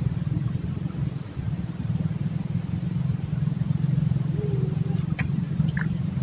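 A steady low engine drone, with a few short high chirps near the end.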